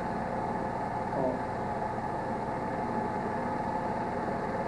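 A steady, even droning hum with no distinct events.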